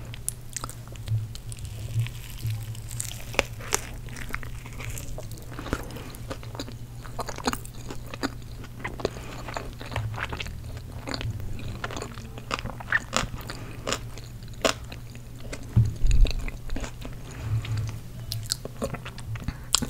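Close-miked chewing and crunching of fast food, with irregular wet mouth clicks and crackles. A louder low thump comes about sixteen seconds in.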